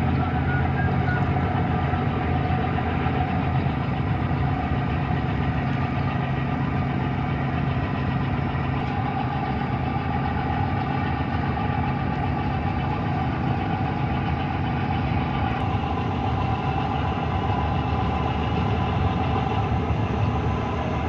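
Large diesel engine running steadily at low revs, a constant low drone with no change in pitch.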